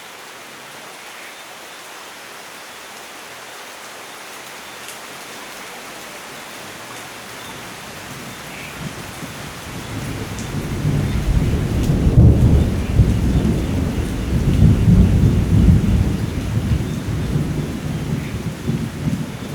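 Steady rain hiss with a long roll of thunder building from about eight seconds in, rumbling loudest in the middle of the second half and slowly fading.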